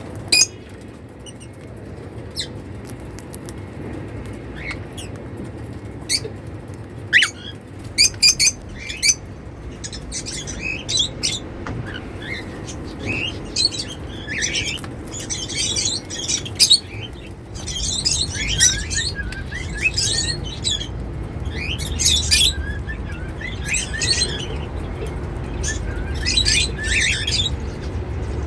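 Cockatiels chirping and warbling in quick, short calls, with a few sharp clicks in the first third.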